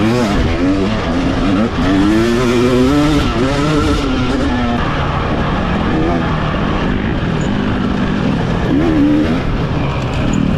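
Dirt bike engine ridden hard, its revs rising and falling again and again as the throttle opens and closes, over a steady rush of wind and ride noise.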